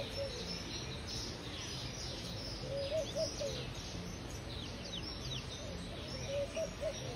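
Birds chirping with high, thin calls, including a quick run of downward-sweeping notes about four seconds in, over a steady background hum.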